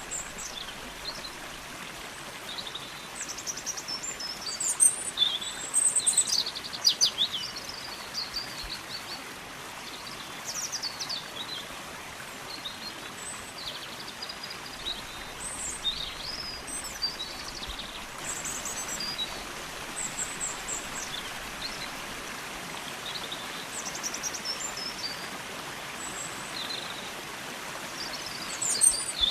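Steady rush of flowing water, with a songbird singing short, high whistled and trilled phrases over it every few seconds.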